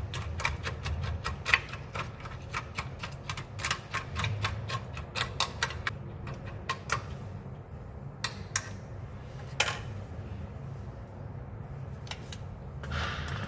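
Spoon stirring rice and water in a foil bowl, clicking and scraping against the foil in quick, irregular taps that thin out about halfway through. A short rustle comes near the end.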